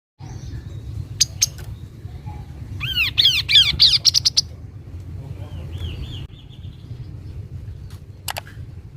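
Kaso-kaso bird calling: a fast run of about a dozen loud, arched chirps about three seconds in, then a softer, fading run of chirps around six seconds, with a few sharp clicks near the start and near the end. A steady low rumble lies underneath.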